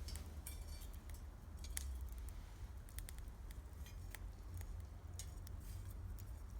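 Wood campfire crackling, with irregular sharp pops and snaps scattered through.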